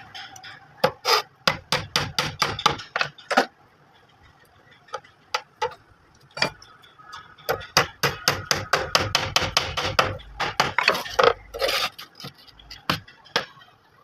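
Hammer striking nails into wood in quick runs of blows: a run in the first few seconds, a pause with a few single taps, then a longer, denser run through the second half.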